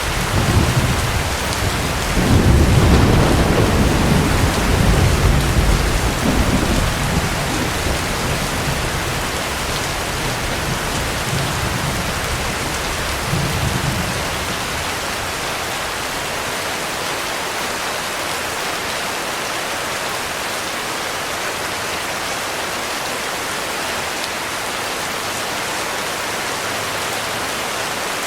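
Heavy rain falling steadily, with a long roll of thunder that begins right away, is loudest a few seconds in, and rumbles down over about fourteen seconds, with one last low swell before it dies away.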